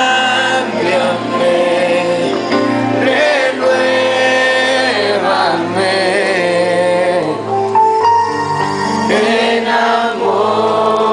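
Group singing a Spanish-language Christian worship song, long sung notes over a steady sustained accompaniment.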